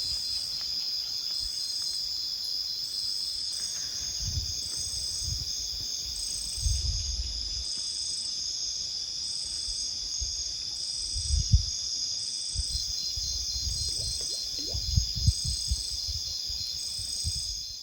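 Insect chorus: a steady high-pitched trill with a second insect chirping in short, even pulses a little more than once a second, and a few dull low thumps.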